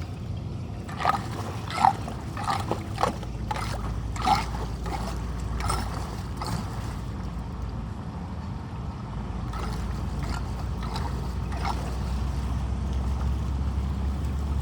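Steady rush of flood water, louder toward the end, with a run of sharp knocks and clatters in the first few seconds.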